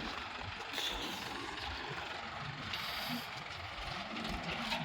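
Diesel engine of a backhoe loader running steadily as it works.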